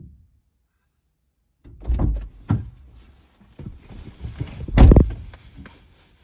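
A series of irregular heavy thumps and knocks with a faint hiss between them, starting about two seconds in; the loudest knock comes near the end.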